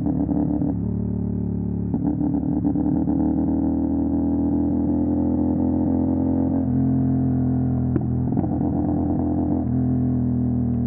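CFMOTO 450 SR parallel-twin engine running through an MSH G6 full-system aftermarket exhaust while riding. The engine note climbs slowly, then changes pitch about two-thirds of the way through and again near the end.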